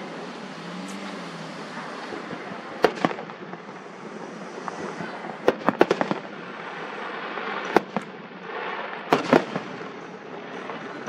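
Fireworks bursting: sharp bangs in irregular groups over a steady hissing background, a pair about three seconds in, a rapid cluster around six seconds, and more near eight and nine seconds.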